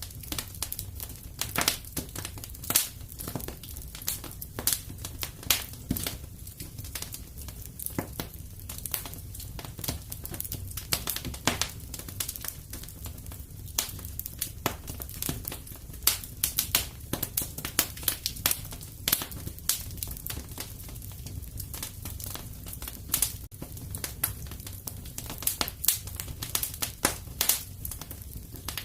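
Fireplace wood fire crackling: irregular sharp pops and snaps, several a second with some louder ones, over a steady low rumble of the flames.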